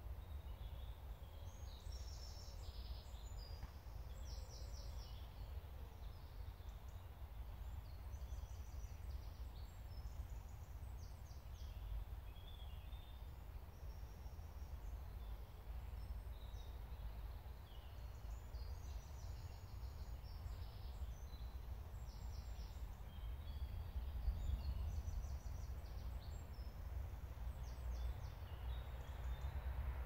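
Small woodland birds calling throughout, short high chirps and quick trills at irregular intervals, over a steady low rumble.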